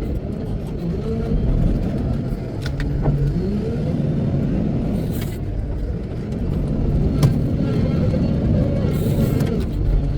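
Wheel loader's diesel engine revving up and falling back about three times, with a few sharp knocks.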